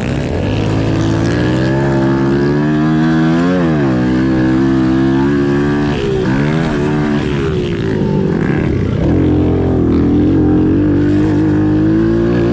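Pit bike engines running, their pitch rising and falling several times as the throttle is opened and closed.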